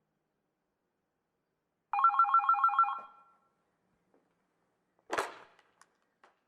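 Electronic telephone ring: a warbling trill of about seven rapid pulses lasting about a second, then about two seconds later a short noisy clatter with a few faint clicks. No sea or wave sound is heard.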